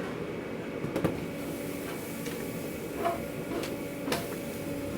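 A steady machine hum in a food-truck kitchen, with a few light knocks and clicks from handling utensils or containers.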